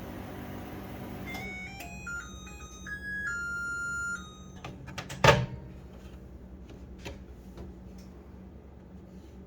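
LG microwave's running hum cuts off about a second and a half in, and a short electronic melody of stepped beeps plays for about three seconds: the end-of-cycle tune. About a second later come a few clicks and one loud clunk.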